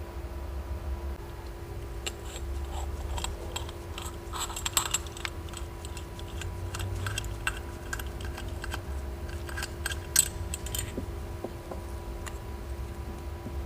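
Small metal parts and tools clicking and clinking as they are handled, in an irregular run of light taps that starts about two seconds in and stops near the end. A steady faint hum runs underneath.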